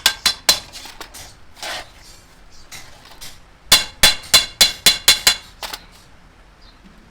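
Hammer blows on sheet metal, sharp and ringing, about four a second: a few strikes at the start, lighter knocks for a few seconds, then a run of about eight blows past the middle.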